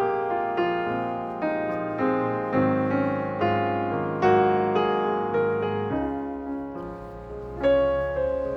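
Background piano music: a slow, gentle melody of single struck notes and chords, each ringing and fading before the next.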